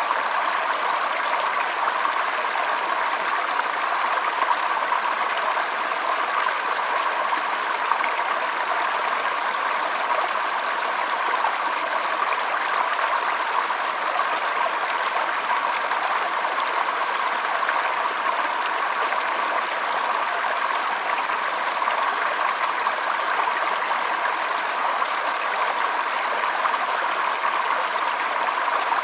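Running water flowing steadily, an even rushing sound with no breaks or changes.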